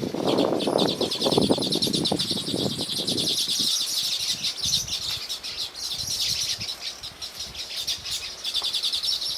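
Small songbirds chirping in a fast, continuous, high-pitched chatter, with a low crackling noise in the first three seconds or so.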